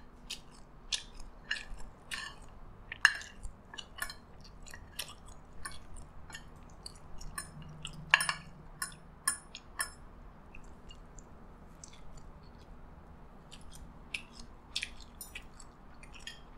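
Close-miked chewing of fried rice: a steady run of wet mouth clicks and smacks. About eight seconds in, a spoon clinks on a plate as more rice is scooped up.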